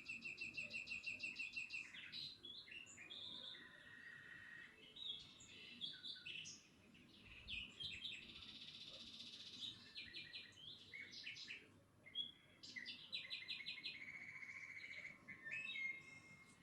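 Birds singing and calling, with fast trills of repeated notes and short chirps overlapping.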